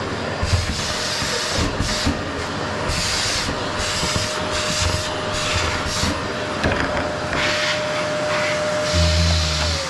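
Qilive vacuum cleaner running on a wooden floor, its hissing suction surging and easing irregularly as the nozzle is worked back and forth over a steady motor whine. Near the end there is a low thump, and the motor's pitch begins to fall as it winds down.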